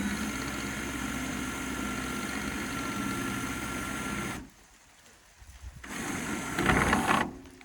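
A motor runs steadily with an even hum and cuts off abruptly about four and a half seconds in. After a moment of near silence, wind buffets the microphone, loudest near the end.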